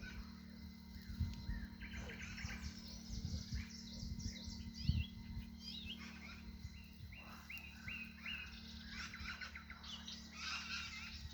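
Several songbirds singing at once, overlapping chirps and quick trills, over a steady low hum with a few low thuds, the strongest about five seconds in.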